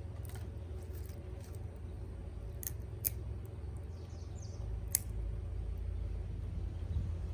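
Wood campfire crackling, with a few sharp pops over a steady low rumble.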